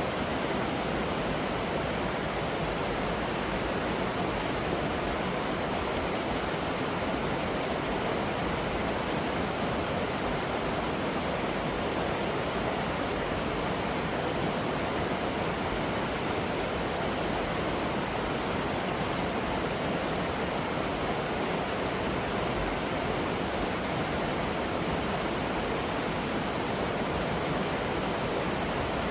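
Waterfall pouring steadily close by, an even rushing with no breaks.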